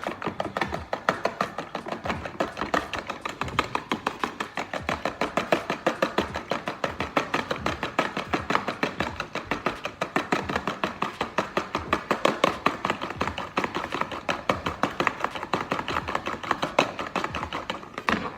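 Egg whites being beaten by hand with a whisk in a bowl, the whisk clicking against the bowl in a fast, even rhythm of about six strokes a second.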